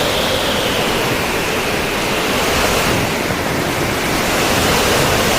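Rough surf from a cyclone-stirred sea, waves breaking in a steady, unbroken wash of noise.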